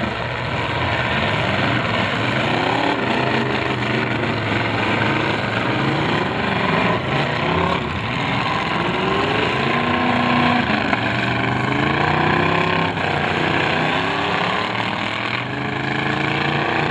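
Several demolition derby cars' engines revving up and down at once, overlapping, with a few knocks of cars hitting each other.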